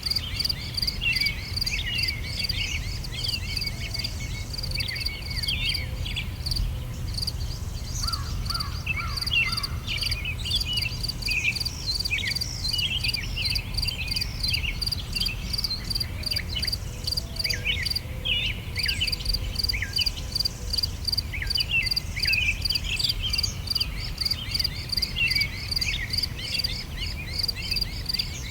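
Summer outdoor ambience: several songbirds chirping and twittering, over a steady insect trill that pulses rhythmically several times a second, with a low steady background rumble underneath.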